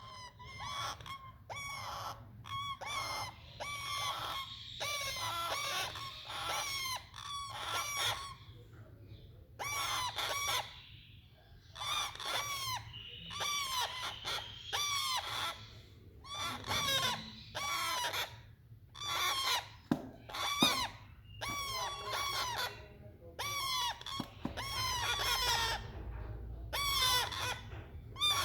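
Five-week-old parrot chicks calling over and over, short pitched calls in quick runs of several a second with brief pauses between runs.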